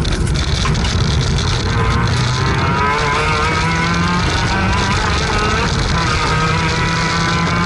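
Rally car's engine heard from inside the cabin, driven hard: the revs climb a couple of seconds in, hold high and steady, then change pitch again about six seconds in, as at a gear change.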